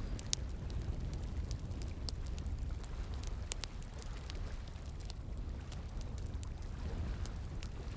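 Wood fire crackling, with sharp pops at irregular intervals, over the steady rush of flowing water.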